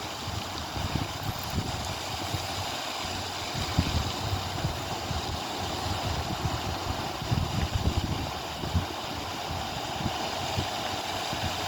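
Wind buffeting the microphone in irregular gusts over a steady rush of water.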